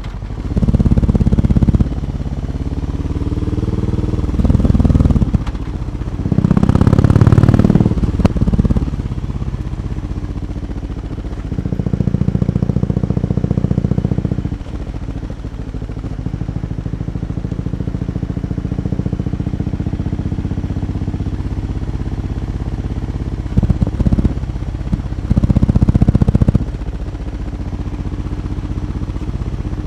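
BMW R18 B's 1,802 cc boxer twin heard through its exhaust, running with a steady, even firing beat. The throttle is opened several times, each time giving a louder, fuller exhaust note for a second or a few seconds; the loudest comes about seven seconds in.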